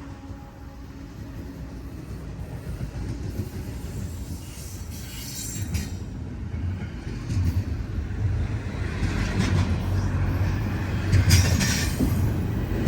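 A diesel freight train led by General Electric diesel-electric locomotives approaches, its engine and wheel rumble growing steadily louder, with some rail clatter. The steady chord of the locomotive horn dies away in the first second or so.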